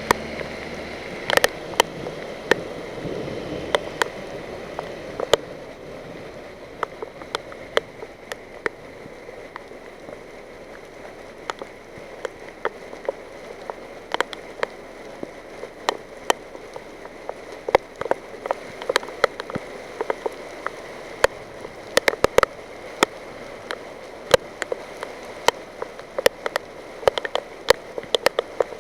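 Rain falling, with a steady hiss of rain and running water and irregular sharp taps of heavy drops striking a nearby hard surface.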